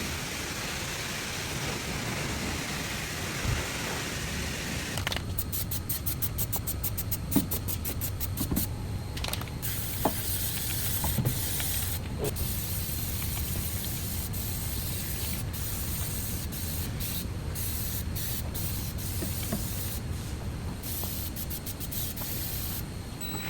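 A steady hissing spray that thins about five seconds in, followed by scattered light clicks and knocks.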